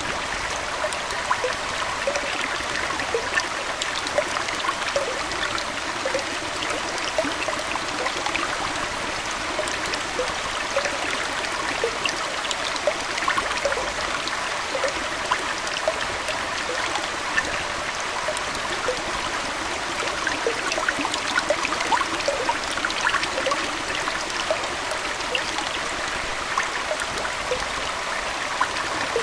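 Aquarium water flowing and trickling steadily, an even babble dotted with many small bubbling plinks.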